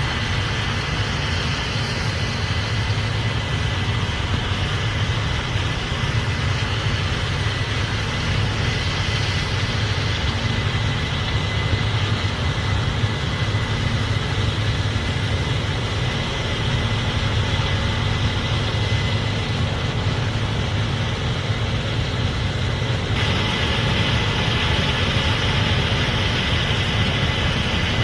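Case IH Axial-Flow 8250 combine running steadily while harvesting corn: a deep, even machine drone with a thin steady whine above it. A few seconds before the end the sound turns brighter and more hissy.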